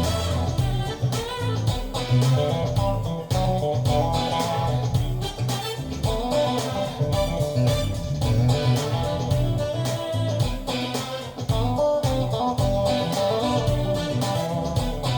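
Guitar-led music with a steady beat and a strong bass line, played back through Wilson Audio Watt/Puppy 6 hi-fi loudspeakers and picked up by a phone microphone in the room.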